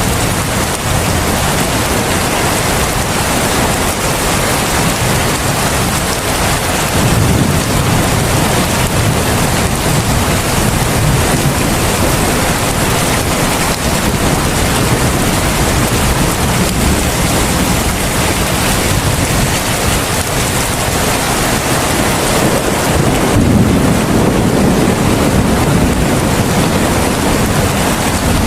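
Heavy rain falling in a steady, dense hiss. A low rumble swells under it about a quarter of the way in and again near the end.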